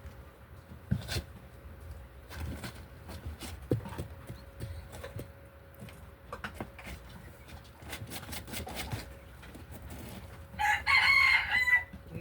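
A chicken gives one loud call, about a second and a half long, near the end, after a spell of scattered light clicks and knocks.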